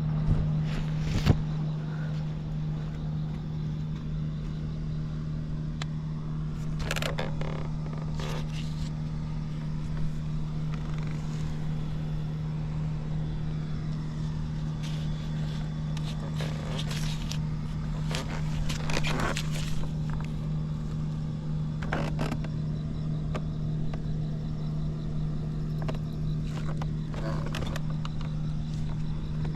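Honda Squash (AB11) scooter engine idling steadily and evenly, a quiet running sound with no abnormal engine noise. A sharp knock comes about a second in, and a few brief scrapes and rattles come and go over it.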